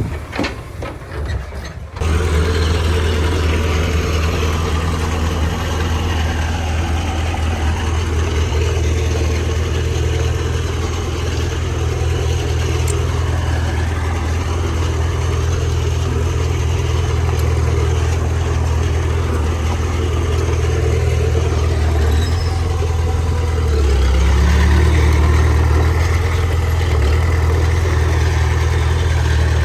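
Wind noise on the microphone for about two seconds, then an abrupt cut to a heavy diesel engine of earthmoving machinery running steadily, with a deeper, slightly louder stretch a little after two-thirds of the way through.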